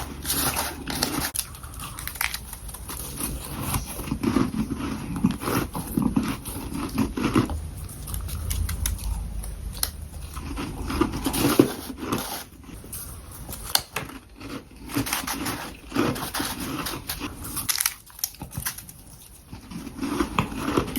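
Close-miked biting and chewing of powdery humidifier freezer frost: dense, irregular crisp crunching that comes in bouts, with mouth sounds between bites.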